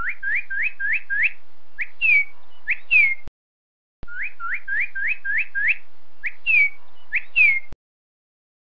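Bird song of clear whistled notes: a quick run of about six rising notes, then a few longer falling ones. The whole phrase is heard twice with a short break between.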